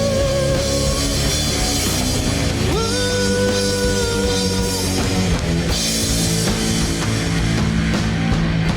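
Rock band playing loud and distorted: long held lead notes, one sliding up into place about three seconds in, over bass and drum kit.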